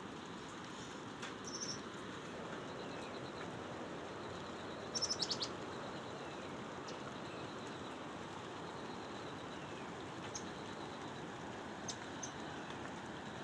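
Birds chirping high over a steady background hiss: a short call about one and a half seconds in, a quick run of high notes about five seconds in that is the loudest sound, then single chirps near the end.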